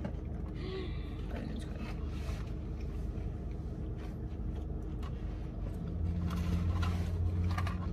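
Small chewing and food-handling noises over a low steady hum inside a car. A deeper steady hum swells about six seconds in and lasts under two seconds.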